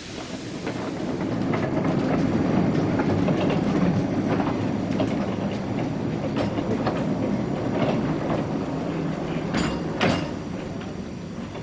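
Narrow-gauge train running past, a steady rumble that builds over the first two seconds, with its wheels clicking over the rail joints. There is one sharper knock about ten seconds in.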